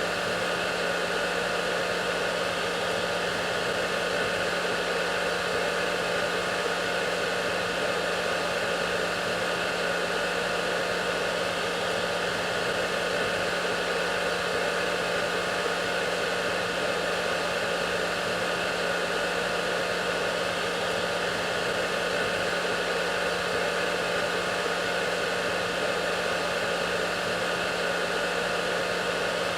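Hair dryer running at a steady, unchanging level: a constant rush of air over a low motor hum.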